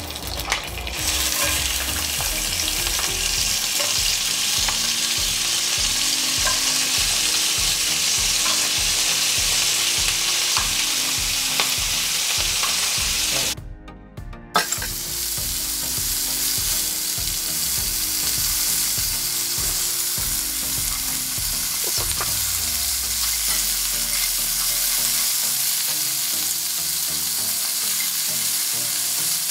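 Razor clams frying in hot oil in a cast iron skillet on high heat: steady sizzling, cutting out briefly about halfway through.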